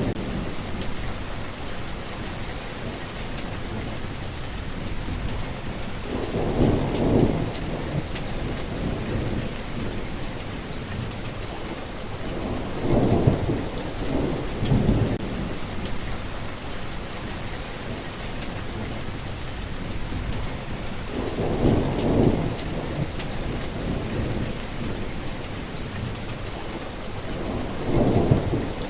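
Steady heavy rain falling, with low rolls of thunder swelling up four times, each lasting a second or two.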